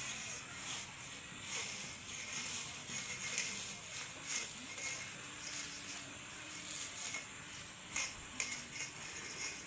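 Rural outdoor ambience: a steady high-pitched insect drone, with scattered faint clicks and rustles.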